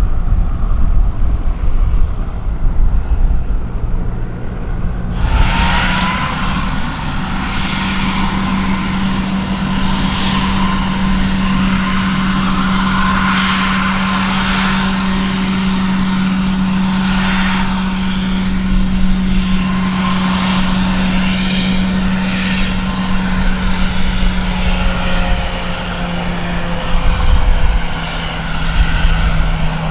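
Airliner engines running close by. After a low rumble, the sound comes in abruptly about five seconds in and holds as a steady low hum with a fainter whine above it. Wind buffets the microphone at the start and near the end.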